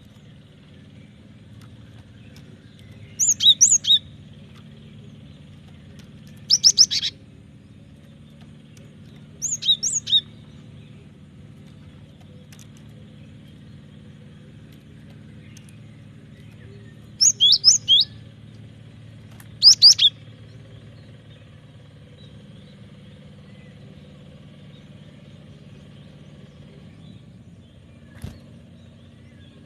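Cinereous tit (gelatik batu) singing in five short bursts, each a quick run of high, sharp repeated notes, with longer gaps after the third. A steady low hum runs underneath.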